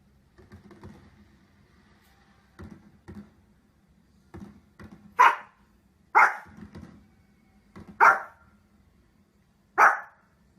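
A dog barking: four loud single barks in the second half, spaced about one to two seconds apart, with fainter short sounds before them.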